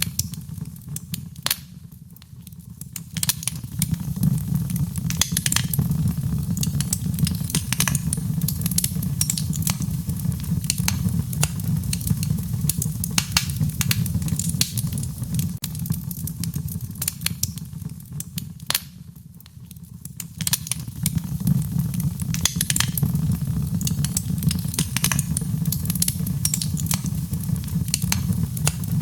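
Wood fire burning: a steady low rumble with frequent sharp crackles and pops. The rumble eases off briefly twice, a couple of seconds in and again about two-thirds of the way through.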